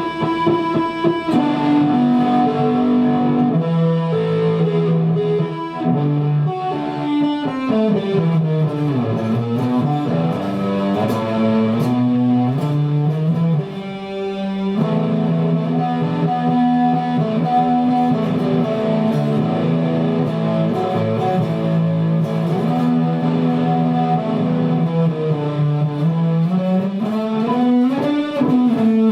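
Guitar music: long held notes, sliding down in pitch about a third of the way through and up again near the end.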